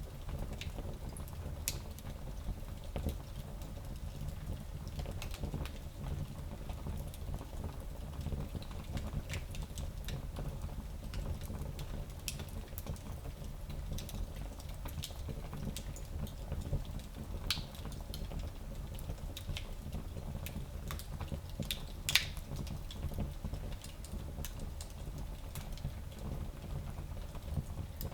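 Wood fire burning in a small fireplace: a steady low rumble of flames with irregular crackles and pops, the loudest pop about two-thirds of the way through.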